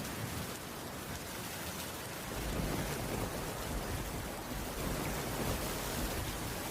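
Steady heavy rain falling on a cabin roof. A deep low rumble sets in about two seconds in and continues under the rain.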